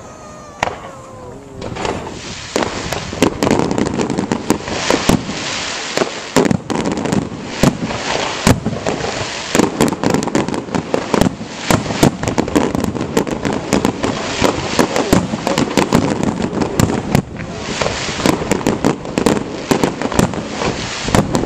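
Aerial fireworks display: a falling whistle in the first second or so, then from about two seconds in a dense, continuous barrage of sharp bangs and crackling.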